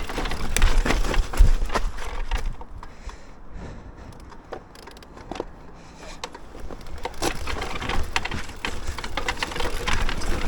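Mountain bike moving over rough, debris-strewn trail: a run of irregular clicks, knocks and cracking like twigs snapping, with a quieter stretch in the middle before the clatter picks up again.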